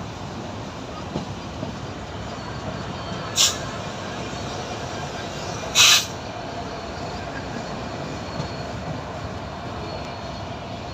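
A train at a railway station running with a steady rumble and a faint held tone. Two short, sharp hisses sound about a third and halfway through; the second is longer and louder.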